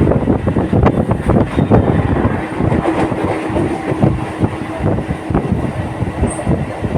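Local passenger train running along the line: a dense, continuous clatter of wheels and carriage rattling over the track, with a faint steady hum joining about two and a half seconds in.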